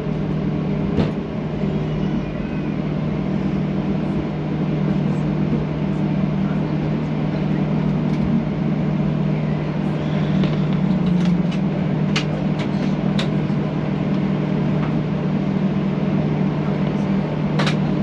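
Cabin noise inside a Boeing 737-800: the engines' steady hum and rushing airflow, with a few short clicks and rattles from cabin fittings.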